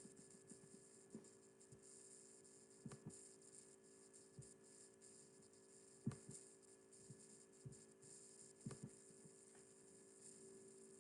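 Near silence: a faint steady electrical hum with a few soft clicks.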